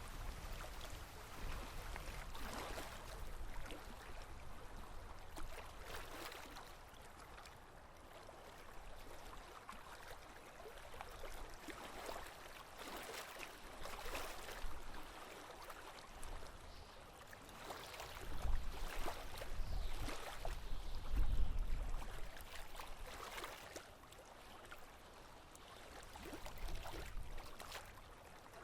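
Small waves lapping and gurgling against a sailboat's hull in uneven splashes every second or two, with a louder low rumble about two-thirds of the way through.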